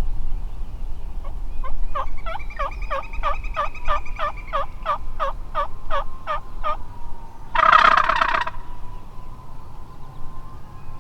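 A run of about fifteen turkey yelps, then a wild turkey gobbler gobbles once, a loud rattling burst about a second long.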